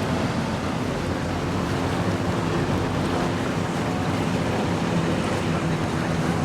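Boat engines running with a steady drone, mixed with the wash of waves and wind on the microphone.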